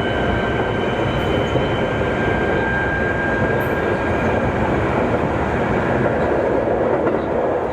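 Interior running noise of a Keikyu 2000-series electric train car at high speed: a dense, steady rumble of wheels on rail with a steady high whine over it that fades about two thirds of the way through.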